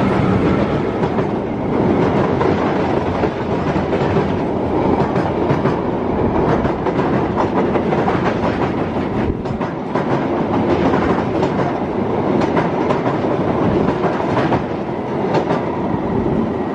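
Diesel-hauled passenger train passing close by at speed over a steel rail bridge. The locomotive goes by at the start, then the coaches follow as a steady, loud rumble of wheels with rapid clicks over the rail joints.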